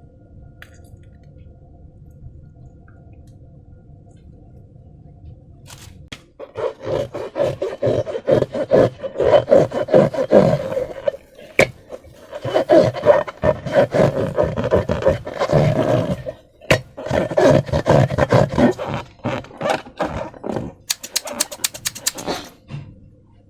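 Slime being squeezed and worked by hand, a wet, crackling squish in irregular bursts that starts about six seconds in after a faint steady hum. A quick run of clicks comes near the end.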